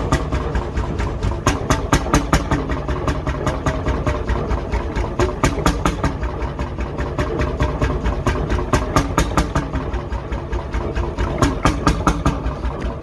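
1957 McDonald Type YD 25 hp two-stroke hot-bulb engine running on its first start after many years, each firing stroke a sharp pulse in an even beat of several a second.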